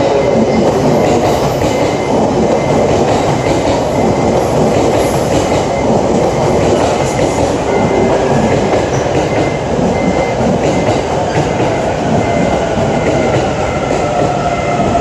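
Electric commuter train running along the platform, a loud steady rumble of wheels on rails with a faint whine from its motors.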